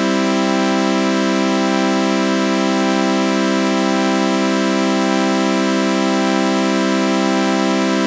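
A synthesized sawtooth-wave chord with a flanger effect, held steady and unchanging, with a faint slow wavering in its upper tones.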